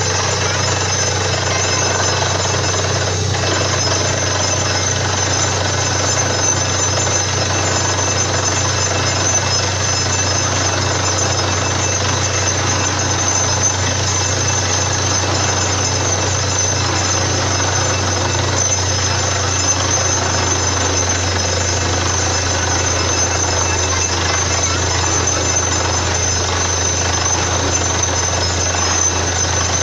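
Borewell drilling rig running steadily through the drilling, a loud continuous machine noise with a deep hum underneath.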